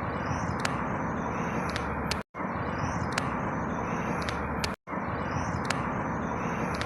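Outdoor ambience recording: a steady rush of noise like distant traffic, with faint high chirps. It plays as a short loop of about two and a half seconds that drops out to silence for a moment between repeats, about two seconds in and again near five seconds.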